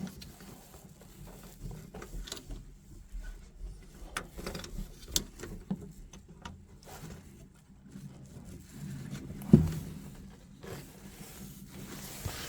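Hands working on boiler parts: scattered small clicks, taps and scrapes, with one sharper knock about nine and a half seconds in, over a faint steady low hum.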